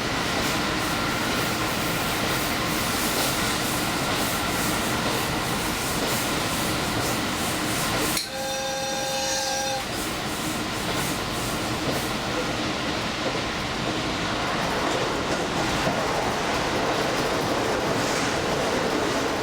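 Diesel express train running at speed on the track, a steady rumble and rush of wheels and rails. About eight seconds in the noise briefly drops and a steady two-note tone sounds for about a second and a half.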